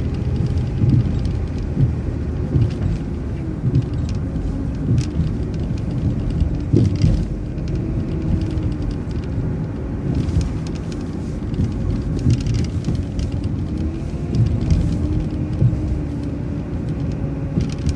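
City transit bus driving along a street. Its engine and drivetrain run under a steady low road rumble, with a faint whine that rises and falls in pitch as the bus speeds up and slows, and light scattered rattles.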